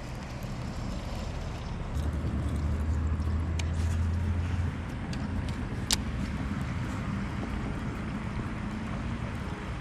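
Road traffic rumbling steadily, with a stronger low hum from about two seconds in to nearly five seconds, and a few sharp clicks, the loudest about six seconds in.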